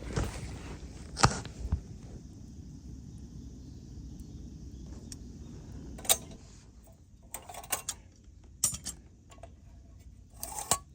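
Scattered clicks and clinks of small hard objects being handled, irregular, the loudest about a second in and several more in quick clusters in the second half.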